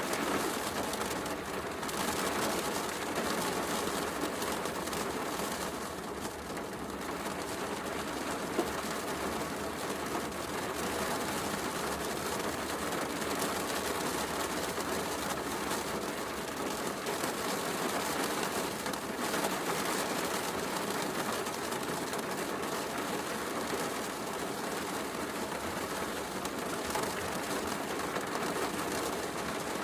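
Heavy rain falling steadily as an even hiss, mixed with a fireplace crackling, with one sharp pop from the fire about eight and a half seconds in.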